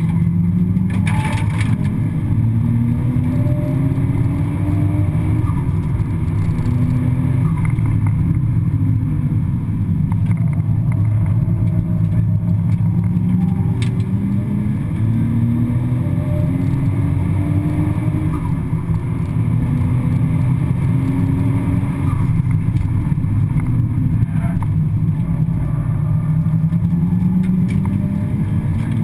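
Nissan Skyline R33 GTS-T's turbocharged straight-six heard from inside the cabin at racing pace, its revs climbing again and again through the gears and dropping back between, over a steady drone of engine and road noise.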